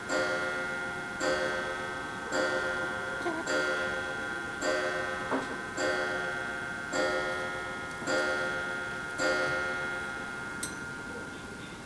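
A ringing, bell-like chime struck at an even pace of about one note a second, nine times, each note fading before the next; it stops with a small click near the end.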